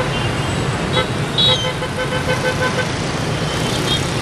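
Dense motorbike and scooter traffic running steadily, with horns tooting over it: a short toot about a second in, a louder one just after, then a rapid string of short beeps, and another toot near the end.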